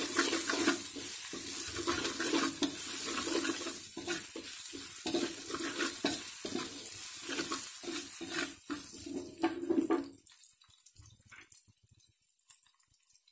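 Chillies, shallots and garlic sizzling in hot oil in an aluminium wok, with a metal spatula scraping and stirring against the pan in quick strokes. The sizzle and scraping stop about ten seconds in, leaving it much quieter.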